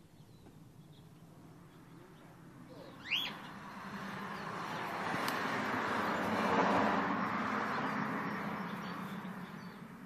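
A bird gives one short, sharp rising chirp about three seconds in. A broad rushing noise then swells and fades over several seconds.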